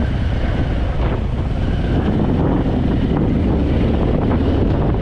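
Wind buffeting the rider's microphone over the steady running of a Harley-Davidson Fat Boy's V-twin engine as the bike filters slowly through stopped traffic.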